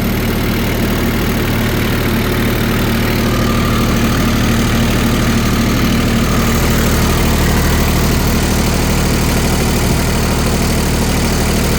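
Kioti LK3054 tractor's diesel engine idling steadily, running smoothly.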